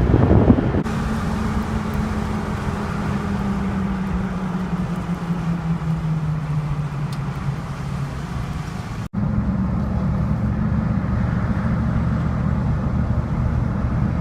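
1949 Chevy 3600 pickup's 235 straight-six running as the truck is driven, its engine note slowly falling in pitch over several seconds. It cuts out for an instant about nine seconds in, then runs steadily again.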